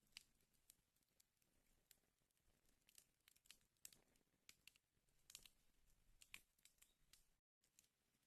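A fire burning in a fireplace, crackling faintly with irregular sharp pops over a soft hiss. The sound cuts out completely for a split second near the end.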